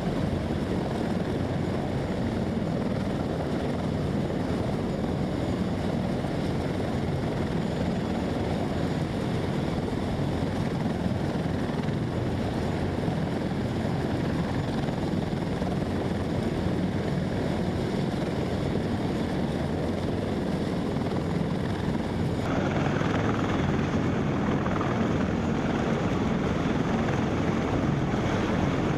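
Helicopter engines and rotors running steadily. The sound shifts abruptly about three-quarters of the way through.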